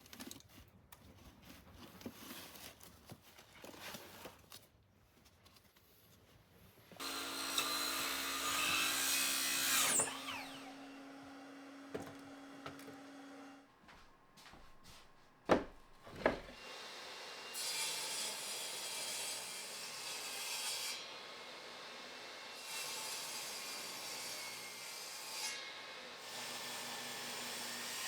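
Woodworking sounds: a few light clicks, then a power tool running with a steady hum and cutting wood for about three seconds. Two sharp knocks follow, then a long steady stretch of sawing on wood.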